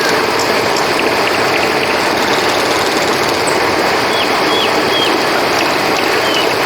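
Steady rush of flowing river water under a constant high insect chirring, with a few short, high chirps about four to five seconds in.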